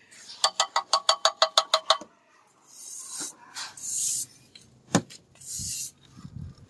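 A short burst of rapid laughter, about eight pulses a second, followed by a hissing scrape of a plastering trowel on a wall and a single knock about five seconds in.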